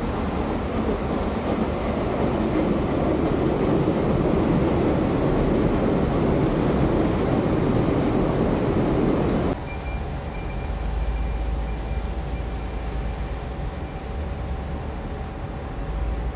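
A train passing close by, its running noise building and getting louder for about nine seconds. It then cuts off suddenly to a quieter low rumble with a faint steady hum.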